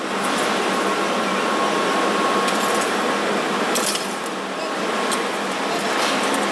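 Furnace running with a steady rushing noise, a faint steady whine through it and a few light clicks.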